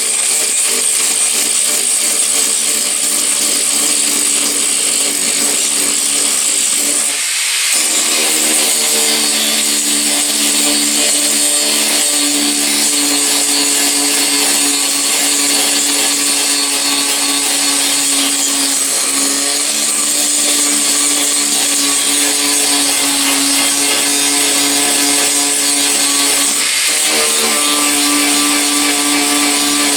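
Handheld power tool running steadily on the truck's sheet-metal bodywork, with a strong hiss and a steady motor whine that shifts in pitch about seven seconds in.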